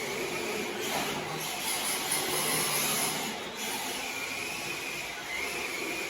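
Electric motor and drivetrain of an MST RMX 2.0 RC drift car whining as it drives on sticky rubber tires, with tire and floor noise underneath. The whine's pitch wavers with the throttle and climbs a little near the end.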